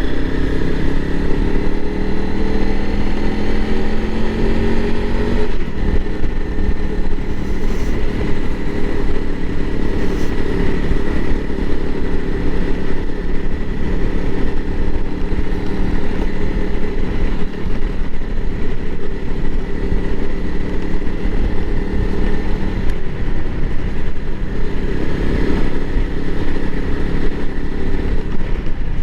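Honda CRF300L Rally's fuel-injected single-cylinder engine under way, its pitch rising for about five seconds, dropping as it shifts up, then holding steady at a cruise. A strong low rush of wind and road noise runs under it.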